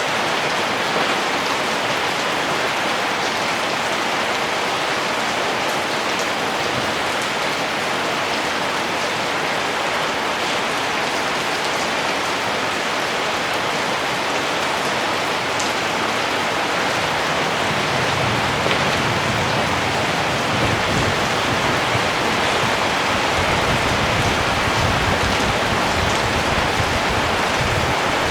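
Steady rain falling, an even hiss with scattered ticks of individual drops. A low rumble comes in underneath about two-thirds of the way through.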